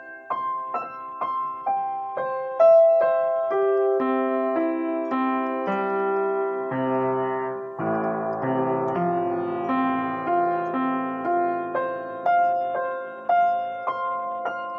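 Piano played at a slow, unhurried pace: single notes struck about two a second, with a stretch in the middle where several notes ring on together as chords.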